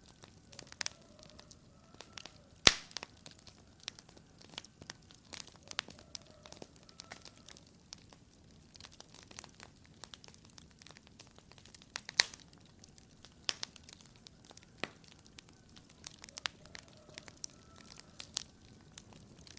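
Wood fire crackling with irregular sharp pops; one loud pop a few seconds in and another about halfway through.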